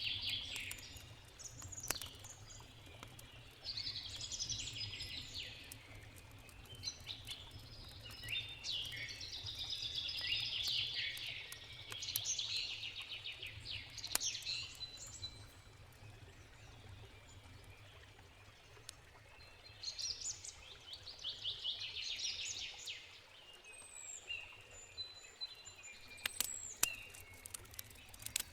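Songbirds singing in repeated bursts of rapid trills, with a few sharp pops from a crackling campfire and a low steady rush of a river underneath.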